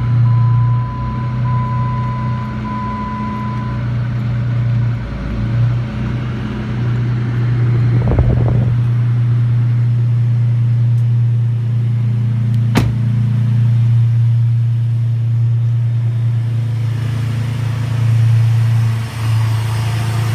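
Dodge Nitro R/T's 4.0-litre V6 idling just after start-up, a steady hum. A beeping warning chime sounds repeatedly for the first few seconds, with a brief rumble about eight seconds in and a sharp click a few seconds later.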